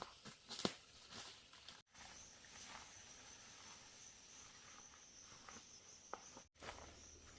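Faint outdoor ambience: scattered soft rustles and steps, with a thin, steady, high insect drone from about two seconds in. The sound drops out completely twice, very briefly.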